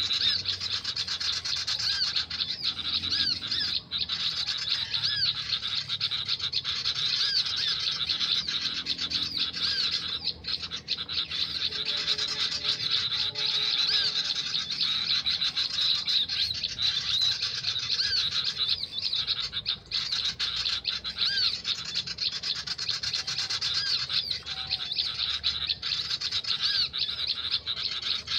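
Bird calls from an MP3 lure played to draw small birds to lime sticks: a dense, unbroken string of high, quickly repeated chirps.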